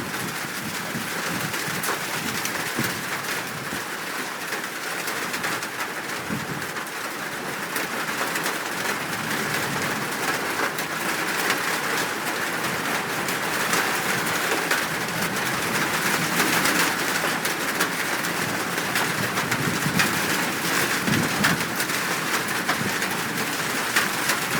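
Steady rain hissing, with a bird giving low cooing calls now and then.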